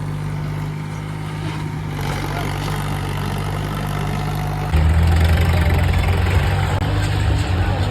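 Tractor diesel engine running steadily; about five seconds in it suddenly gets louder, with a much heavier low rumble.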